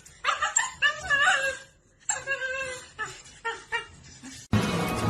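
A dog making a run of short, pitched cries that bend up and down. Music starts suddenly about four and a half seconds in.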